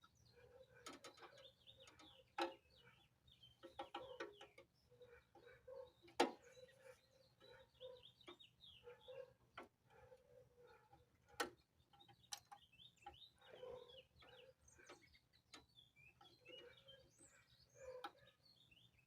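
Faint, irregular clucking of chickens, broken by a few sharp clicks, the loudest about six seconds in and again near the middle.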